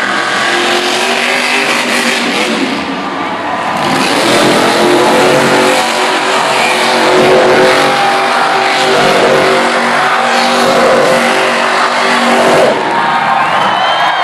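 Monster truck engine revving hard and continuously, loud, its pitch climbing and falling with the throttle. It eases off about a second and a half before the end.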